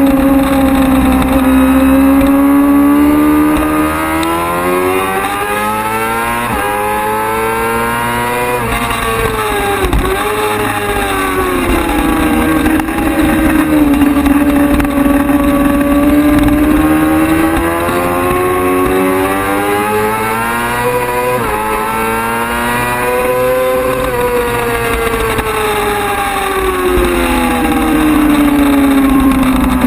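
Race motorcycle engine at high revs, its pitch climbing and falling again and again as the bike accelerates and slows, with one sharp drop and quick recovery about ten seconds in.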